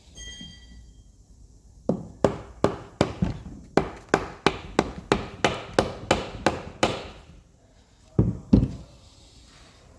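Hammer tapping a socket to drive a new drive shaft oil seal into a gearbox casing: about fifteen even, sharp taps, roughly three a second, then two heavier knocks near the end.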